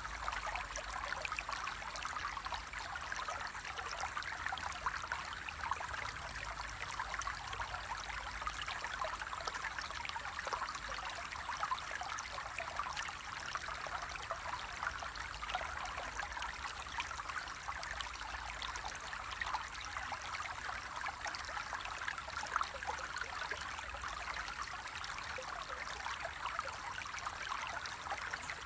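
Stream water flowing steadily, an unbroken rushing hiss that does not change.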